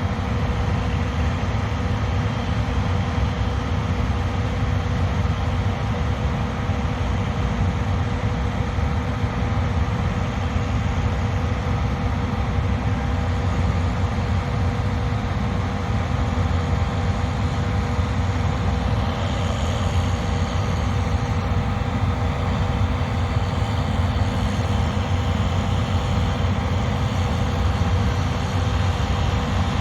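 Combine harvester running steadily under load: a deep engine rumble with a constant whine from the threshing and drive machinery.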